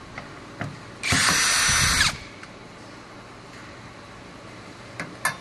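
A power drill runs in one steady burst of about a second, during work on a water pump replacement. Short clicks and knocks of tools come before and after it.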